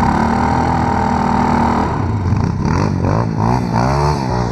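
Small off-road motorcycle or quad engine holding a steady note, then revved up and down several times from about halfway in.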